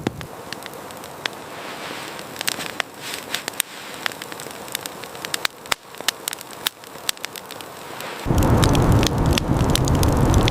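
Small fire crackling, with scattered sharp pops and snaps. About eight seconds in, a loud, low, steady rushing noise cuts in suddenly and drowns it out.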